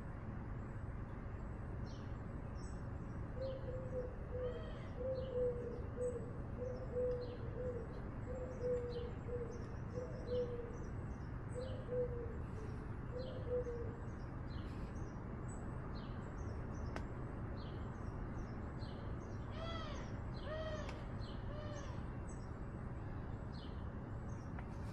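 Birds calling: a low cooing call repeated about once a second for some ten seconds, over short high chirps from small birds throughout. About twenty seconds in come four higher calls in quick succession.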